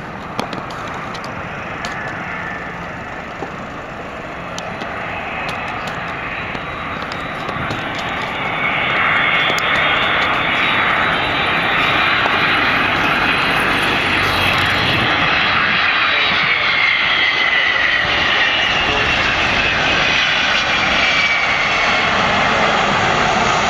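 Boeing 767-200ER jet airliner's engines running as it flies past. The sound grows louder about eight seconds in and then holds, with a whine that slowly falls in pitch as the aircraft passes.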